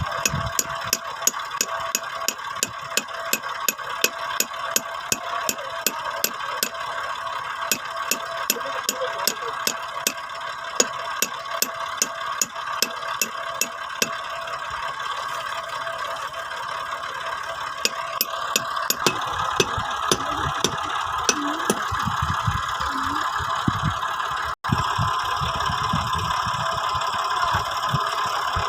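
Massey Ferguson 240 tractor's diesel engine running, with a regular sharp ticking about three times a second.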